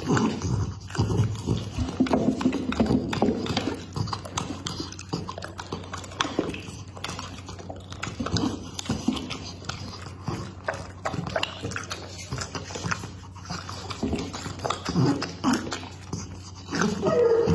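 A pit bull eating meat close to the microphone: wet chewing, smacking and crunching in a rapid, irregular series of clicks, heavier in bursts about a second in and again near the end.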